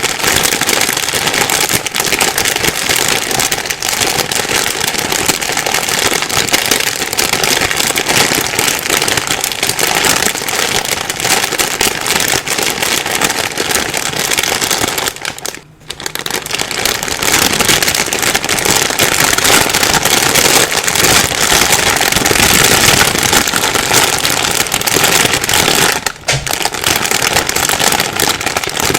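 Plastic bag rustling and crinkling continuously in dense crackles, with a brief pause about halfway through and a short dip near the end.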